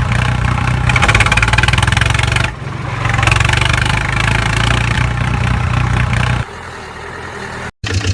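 Steady engine-like mechanical drone with a fast, even pulse. It dips briefly about two and a half seconds in and turns quieter about six and a half seconds in. A short silent gap follows near the end before a pulsing drone resumes.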